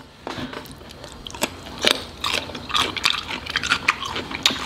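A person chewing food close to the microphone, with many small wet clicks and crunches.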